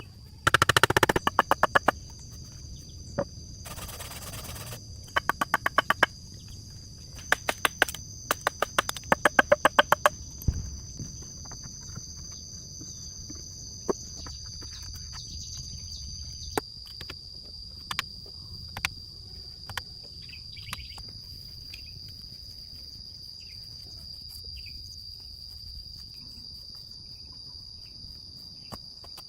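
Insects in the woods droning on a steady high pitch. In the first ten seconds it is broken by several bursts of very rapid knocking or clicking, and a few single knocks follow further on.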